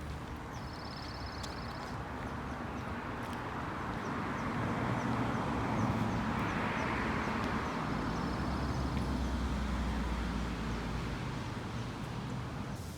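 A car passing by, its noise swelling to a peak about halfway through and then fading, over a low rumble. Small birds chirp, with a short high trill near the start and another near the end.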